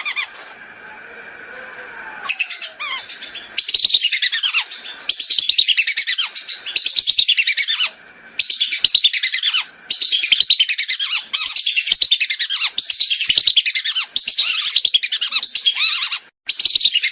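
Whistling duck (belibis) calls from a lure recording. From about two seconds in, the calls come as repeated bursts of rapid, high, falling whistled notes, each burst about a second long and about ten in all.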